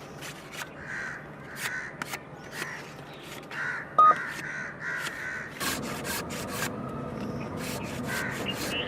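Repeated sharp clicks and knocks, one much louder about four seconds in, over short repeated bird calls.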